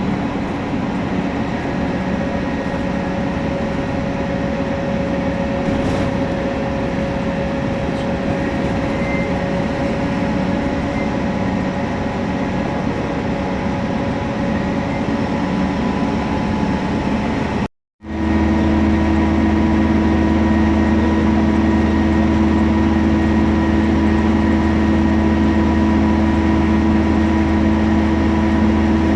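Temsa Prestij SX midibus diesel engine and drivetrain running under way, with a thin steady whine over the engine noise. About two-thirds through the sound cuts out for a moment and returns as a steadier, even engine drone.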